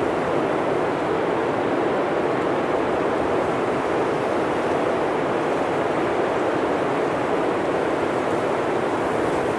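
Blizzard wind blowing steadily, a dense, even rushing noise with no gusts, breaks or changes.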